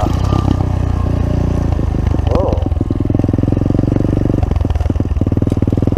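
Pit bike engine running with a steady low drone.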